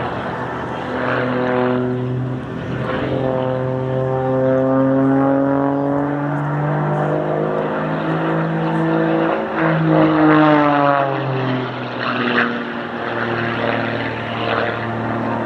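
Propeller-driven aircraft flying past. Its engine and propeller note grows louder and rises slightly in pitch, peaks about ten seconds in, then drops in pitch as it passes and moves away.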